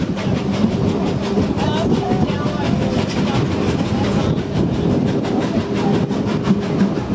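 A heritage passenger train running along the track: a steady loud rumble with wheels clicking over the rails, and voices faintly underneath.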